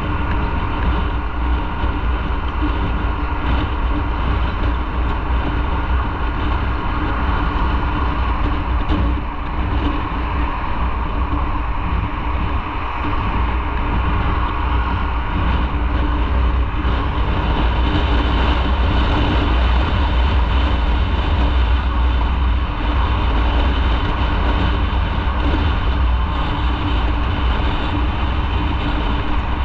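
Motorcycle running at a steady cruising speed, its engine drone mixed with a heavy steady low rumble. It grows slightly louder a little past halfway.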